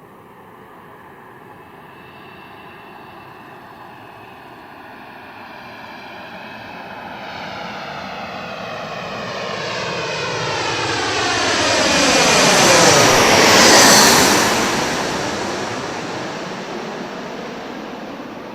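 Jet airliner's turbofan engines passing close by: the sound builds steadily, peaks loud about two-thirds of the way in with a sweeping, phasing hiss, then fades as the aircraft moves away. The aircraft is a Fuji Dream Airlines Embraer regional jet.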